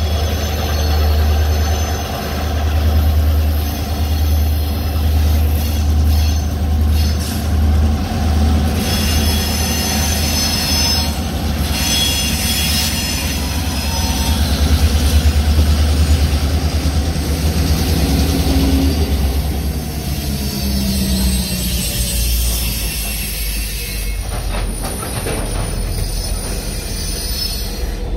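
Union Pacific freight train passing close by: the lead diesel locomotives' engines give a strong low rumble, which drops off after about two-thirds of the way through as the freight cars follow. Steel wheels roll and squeal on the rails throughout.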